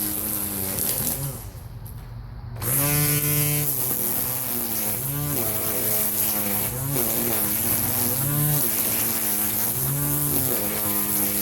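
String trimmer motor running and revving up and down over and over as it cuts, with a short drop in speed about two seconds in.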